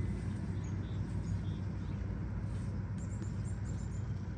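Small birds chirping faintly, a quick run of short high notes about three seconds in, over a steady low rumble.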